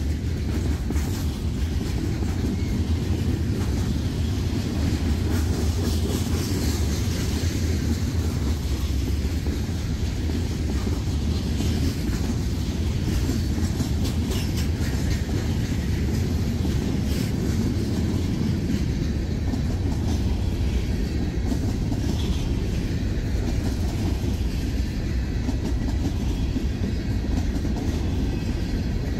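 Loaded freight cars rolling past close by: a steady, heavy rumble of steel wheels on the rails, with irregular clicks and clatter from the wheels and trucks.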